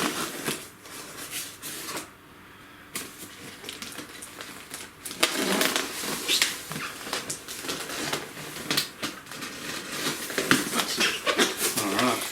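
A cardboard shipping box and its packing being opened and handled: rustling and scraping with irregular clicks and knocks. A short lull about two seconds in, then the handling gets busier from about five seconds in.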